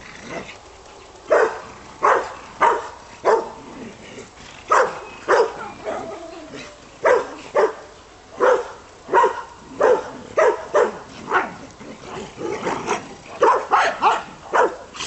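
Dog barking repeatedly in short, sharp barks, a bit over one a second at uneven spacing.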